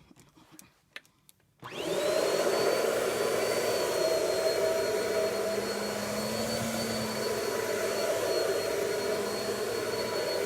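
A few faint clicks, then a vacuum cleaner switches on about a second and a half in. Its motor spins up with a rising whine and then runs steadily.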